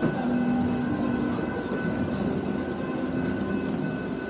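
Narrow-gauge steam train running along the track, heard from aboard: steady wheel-on-rail running noise with a few faint held tones above it.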